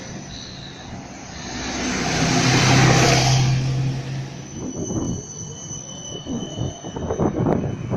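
Electric tram passing close by: its rolling noise and low motor hum swell to a peak about three seconds in and then fade away.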